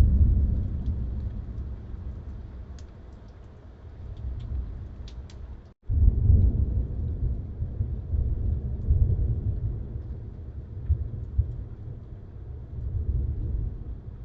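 Thunderstorm: thunder rumbling over rain, one loud roll at the start that fades over several seconds, then a moment of silence and a second roll about six seconds in that rumbles on unevenly.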